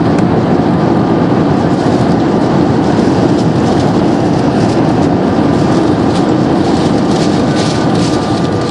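Loud, steady rumble and rattle inside the passenger cabin of an Airbus A320 airliner during its landing, easing off slightly near the end.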